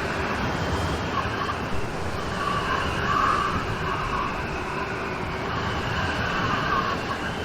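Steady heavy rain falling, with a louder swell about three seconds in.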